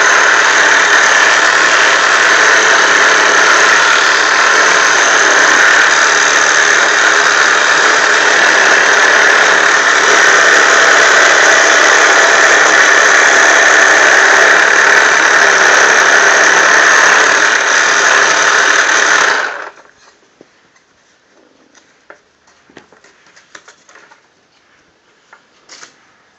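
Toy jigsaw's small electric motor running loud and steady while it cuts out a shape, then switching off suddenly about three-quarters of the way through. A few faint clicks follow.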